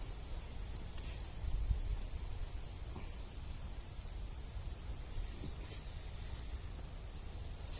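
An insect chirping outdoors in short pulsed trills, a few quick pulses at a time, repeating about once a second, over a low rumble of wind or ambient noise.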